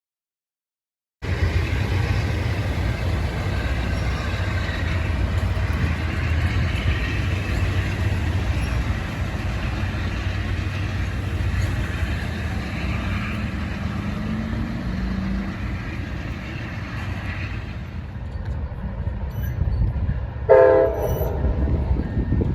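Amtrak passenger train going by with a steady low rumble of locomotive and rolling cars. A short train horn blast comes near the end and is the loudest sound.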